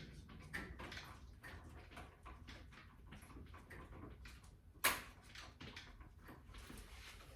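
Faint, scattered clicks and knocks of things being handled, with one sharper knock about five seconds in.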